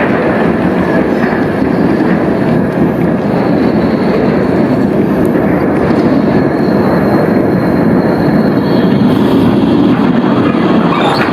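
A tram rolling past: a steady, loud rumble of steel wheels on rail, with a faint thin high whine joining in after a few seconds.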